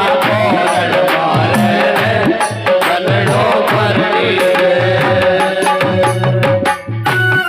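Rajasthani Phagun folk music: a dholak beating a steady rhythm under an electronic organ (keyboard) melody and a held tone, with no clear singing. The music drops out briefly near the end, then comes back in.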